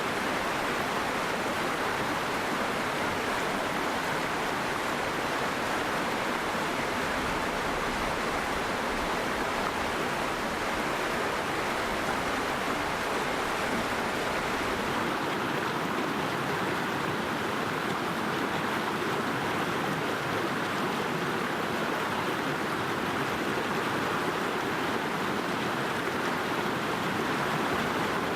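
Hard-flowing river stream rushing right beside the microphone, a steady even noise; a low rumble underneath eases off about halfway through.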